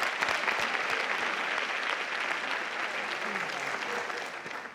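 Studio audience applauding, a dense steady clapping that fades out near the end.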